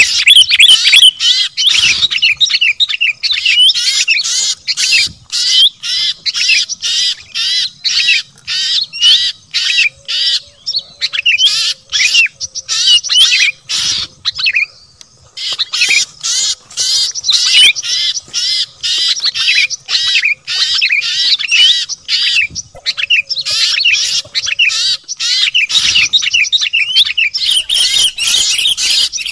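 A dense chorus of many small songbirds calling at once, rapid high chirps and squawks overlapping without pause except a brief lull about halfway: a mixed 'noisy birds' lure recording of the kind used to draw wild birds down.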